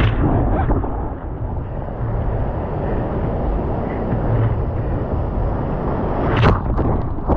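Wind buffeting the microphone, a steady gusty rumble, with a short sharp sound about six and a half seconds in.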